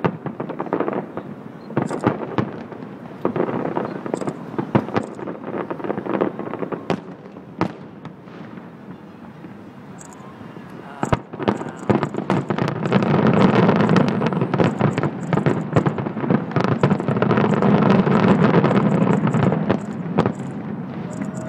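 Aerial fireworks shells bursting: scattered bangs at first, then from about eleven seconds in the finale's dense, rapid barrage of bangs and crackle, which is loudest in the second half.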